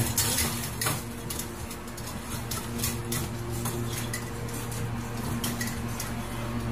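Puppy eating kibble from a stainless steel bowl, the metal bowl clinking and rattling irregularly against the wire cage as it eats, over a steady low hum.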